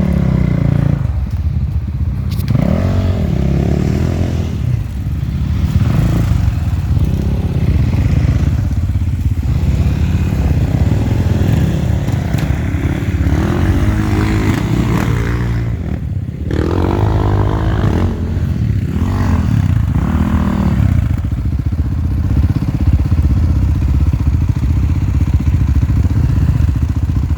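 Enduro motorcycle engine, loud, revving up and down over and over as the rider works the throttle off-road.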